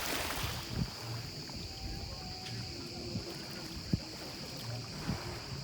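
A steady high-pitched hiss with faint scattered low knocks, and one sharp click about four seconds in.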